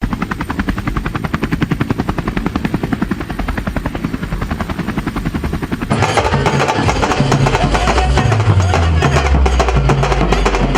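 Helicopter rotor chopping in a fast, even beat, cut off about six seconds in by music with a heavy stepping bass line.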